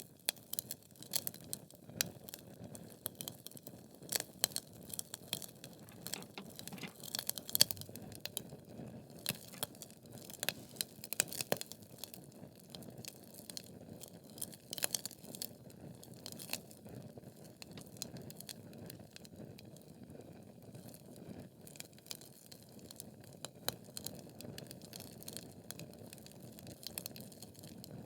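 Wood fire in a fireplace: logs burning with irregular sharp crackles and pops over a low steady rush of flame, the crackling busier in the first half.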